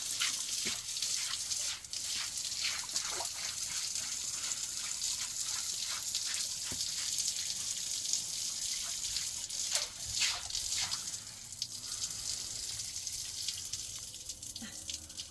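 Water running and splashing, with many small drips and plops in it. The hiss eases off near the end.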